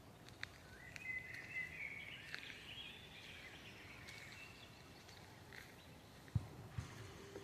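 A songbird singing a rapid, chattering phrase for a couple of seconds over steady, low forest ambience. Near the end, two soft thumps of footsteps on the forest floor.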